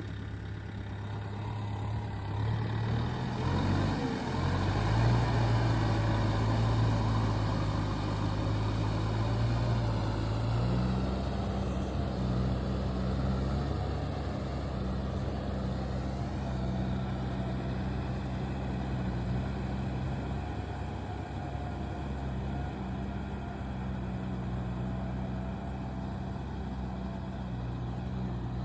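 Heavy diesel engine of earthmoving machinery running steadily, its note shifting around four seconds in and again about eleven seconds in as the throttle or load changes.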